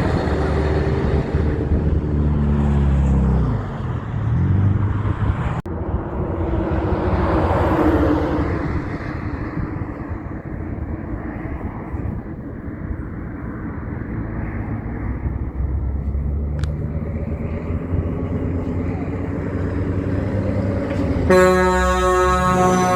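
Heavy vehicles passing on a road, with engine tones dropping in pitch over the first few seconds as one goes by, then steady traffic rumble. About twenty-one seconds in, a loud horn blast begins and is held to the end.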